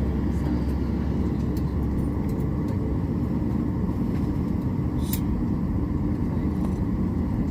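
Airliner cabin noise: a steady low rumble from the engines and air system while the plane waits on the ground before takeoff, with a faint click about five seconds in.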